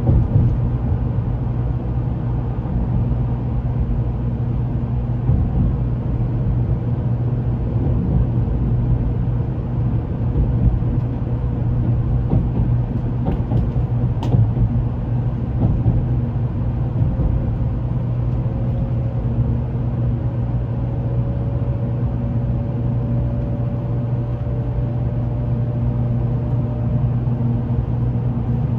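Shinkansen train in motion, heard from inside the passenger car: a steady low rumble with a faint whine that slowly rises in pitch through the second half.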